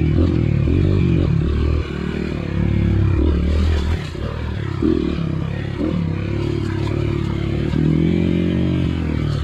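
Off-road motorcycle engine revving up and down as the bike is ridden along a rough trail, the pitch rising and falling with throttle changes, with scraping and clattering from the bike and ground.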